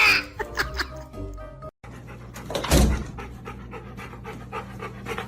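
A dog panting quickly in short, even breaths over background music.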